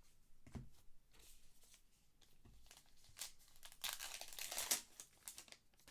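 Baseball cards and their packaging being handled: soft rustling and crinkling, with a louder stretch of crinkling about four seconds in that lasts about a second.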